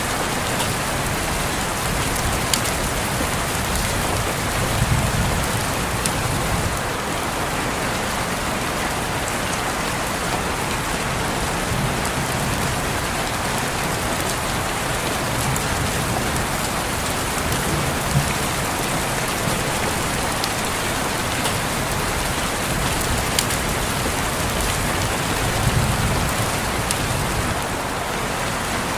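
Steady rain falling on a window pane, a dense even hiss with occasional sharp drop taps. There are a few soft low rumbles, the clearest about five seconds in and near the end.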